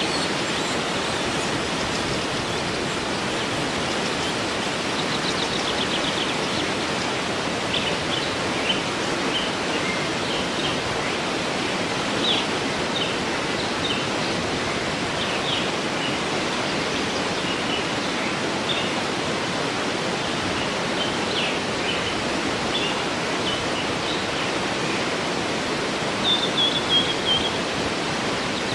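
Waterfall rushing steadily, with birds chirping and trilling over it now and then, one longer trill near the end.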